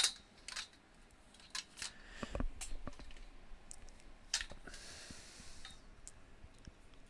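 Light metal clicks and clinks as the folding steel scissor-frame tubing of a canopy tent is handled, with a short scraping slide about five seconds in.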